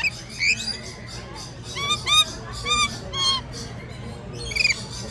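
Lorikeets calling close by in a quick series of short, shrill, arched screeches, several birds overlapping, over a steady low hum.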